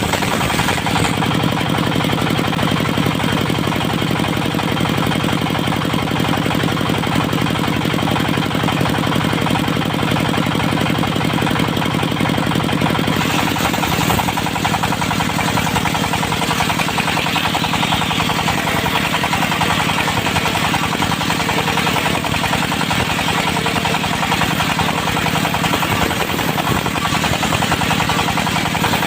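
Diesel engine of a portable circular-saw sawmill running steadily with a fast, even chugging. The sound changes character about halfway through, then runs on steady.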